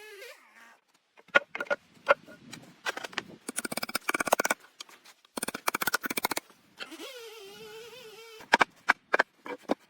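An insect buzzing briefly, a wavering hum at the start and again for a second and a half near the end. Between the two, a run of sharp clicks and crackles.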